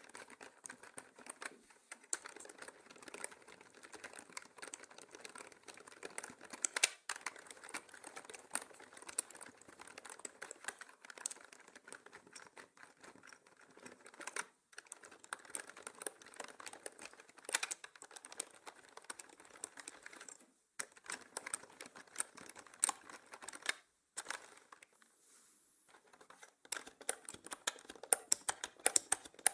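Typing on a mechanical keyboard: a dense, fast run of key clicks with a few short pauses, the longest about two-thirds of the way in, then quicker and louder typing near the end. The sound is processed as 8D audio, panned around the listener.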